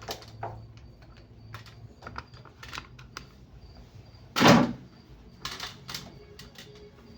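Handling noise as the phone is tied in place: scattered light clicks and taps, with one louder brief rustle about four and a half seconds in.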